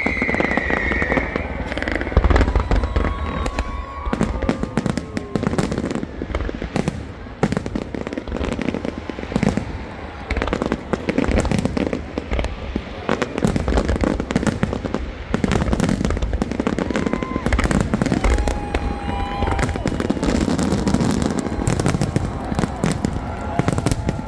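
Aerial fireworks display bursting continuously, with a dense run of sharp bangs and crackles over repeated deep booms from the shells.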